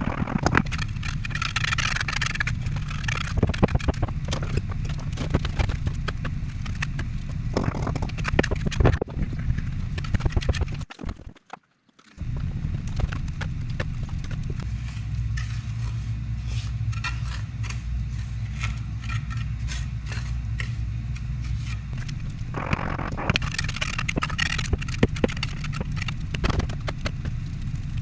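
Brick-laying work: repeated scraping and sharp knocking of a trowel and bricks in mortar, over a steady low rumble, broken by a brief cut to silence about eleven seconds in.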